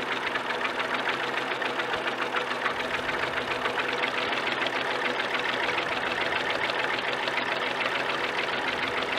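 Fordson P6 tractor's six-cylinder Perkins P6 diesel engine idling steadily, with a rapid even beat of firing pulses.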